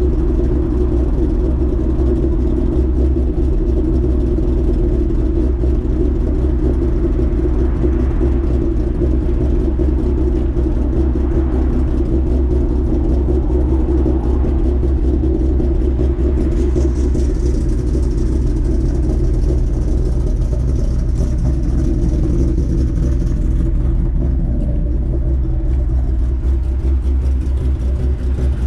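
Car engine idling with a 'ghost cam' tune, which gives it a lumpy, loping idle like an aggressive camshaft, while it warms up after a cold start. The running is steady and loud, and a faint high whine joins for several seconds past the middle.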